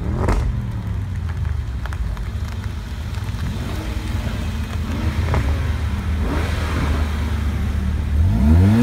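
Mercedes-AMG car engines rumbling at low speed as the cars roll past one after another. There is a short rev just after the start and a stronger rev rising in pitch near the end.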